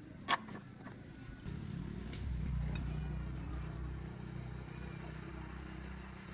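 A single sharp knock, then an engine's low, steady running hum comes in about a second and a half in and carries on.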